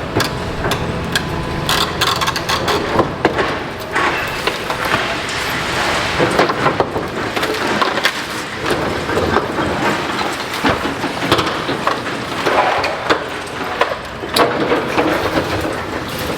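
Building being demolished by an excavator: continuous crunching and crashing of rubble, with many irregular sharp knocks and cracks of falling debris.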